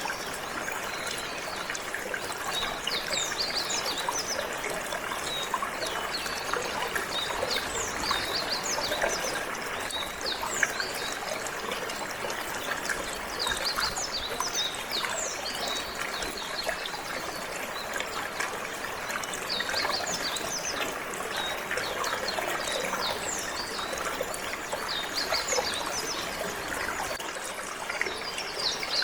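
Steady flowing, trickling water, with canaries chirping over it in scattered clusters of short, high notes.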